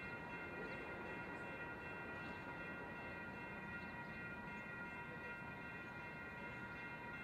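A train at a street grade crossing: a low, steady rumble under a set of steady ringing tones from the crossing bells, with faint regular ticks about once a second.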